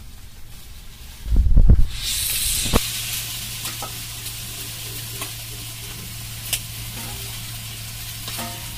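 Raw chicken pieces going into hot oil and onions in an aluminium wok: a dull low thump, then a loud sizzle about two seconds in that settles into steady frying, with a few light clicks of stirring.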